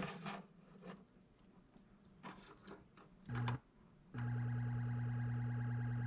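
Stern Trident pinball machine's SB-100 sound board putting a steady low buzzing drone out of the speaker, after a few faint clicks and a short blip about three seconds in, the drone holding from about four seconds in. The sound is still faulty, which the owner suspects is a feedback loop or crossed speaker wires.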